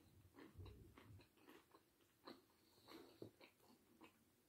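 A person chewing a mouthful of chicken wrap with the mouth closed: faint, irregular chewing clicks.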